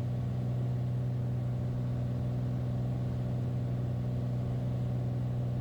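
Cockpit drone of a Beechcraft Bonanza's piston engine and propeller, running steadily on approach with the gear down.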